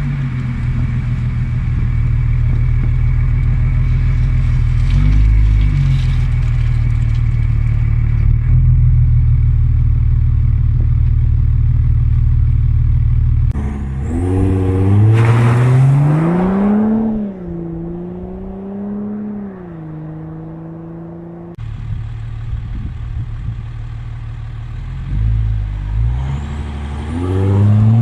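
Audi A4 B7 3.0 TDI V6 diesel with a straight-piped exhaust: a steady deep drone for about thirteen seconds, then the engine note climbing, dipping and levelling off as it revs or pulls. Near the end the note climbs again.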